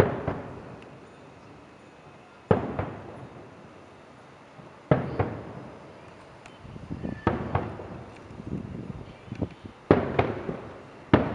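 Aerial fireworks shells bursting: single booms with long echoing tails a couple of seconds apart, and a quicker run of several smaller bangs in the middle.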